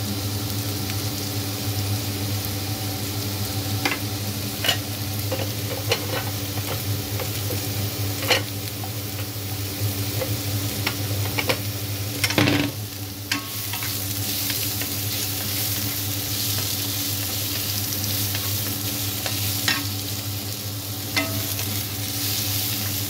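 Asparagus and minced garlic sizzling as they stir-fry in a nonstick pan, with the wooden spatula knocking and scraping against the pan in sharp clicks every second or few, over a steady low hum.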